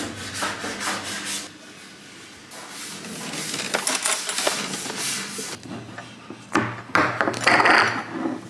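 Irregular rubbing and scraping noises with light knocks and clicks from a food container being handled, busier in the second half.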